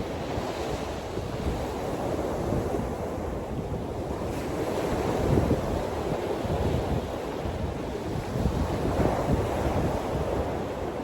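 Wind buffeting the microphone over a steady rush of surf, gusting up and down with no distinct events.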